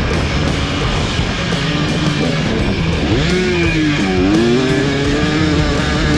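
Rock music with electric guitar over a KTM 300SX two-stroke dirt bike engine revving up and down on the track, its pitch dropping and climbing again around three to four seconds in.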